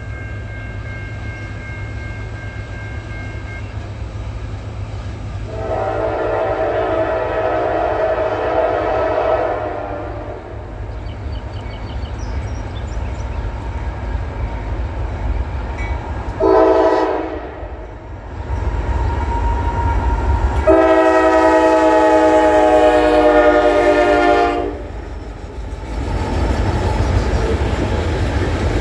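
Diesel freight locomotive sounding its multi-note air horn three times (a long blast, a short one, then a long one) over the steady low rumble of the train. The rumble grows louder near the end as the train comes closer.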